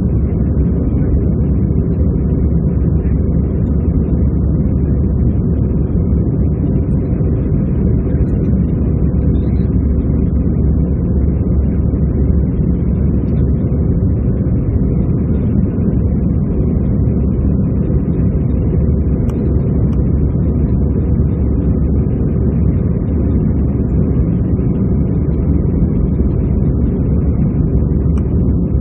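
Steady cabin noise inside an Airbus A320-214 in flight: the deep, even rumble of its CFM56 jet engines and the air rushing past the fuselage, unchanging throughout.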